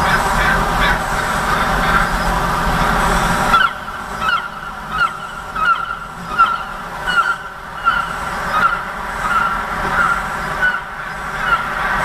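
A steady rumble of street traffic that stops abruptly about three and a half seconds in. After that, a bird repeats a short chirping call about one and a half times a second.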